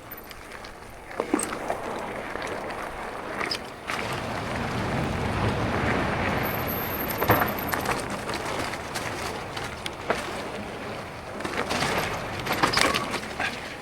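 Marin Alpine Trail 7 mountain bike rolling down a dirt trail: a steady rushing noise that swells in the middle, with scattered knocks and clatters from the bike over rough ground.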